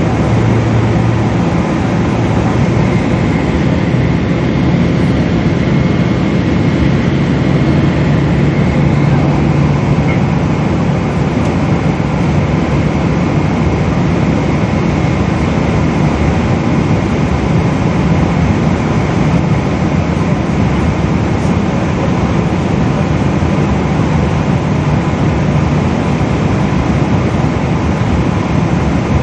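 Steady roar of a Boeing 777's jet engines and airflow heard from inside the passenger cabin, with a low engine hum that shifts slightly in pitch a few times.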